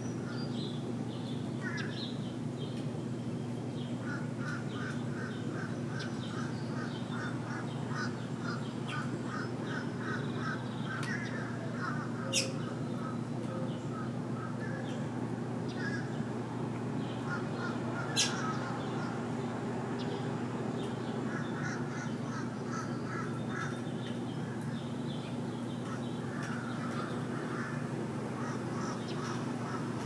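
Small birds calling around a feeder: runs of rapid, evenly repeated chirps and scattered higher chirps over a steady low hum. Two sharp clicks come about twelve and eighteen seconds in.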